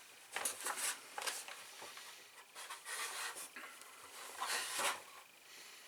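Light wooden model-kit parts being handled and fitted together on a workbench: an irregular series of short rubs and scrapes.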